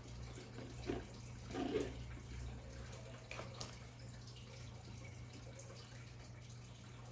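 Faint handling sounds of foam and tape being worked by hand on a small portable speaker: a few soft knocks and rustles, the loudest a little under two seconds in, then a couple of light clicks. A steady low hum runs underneath.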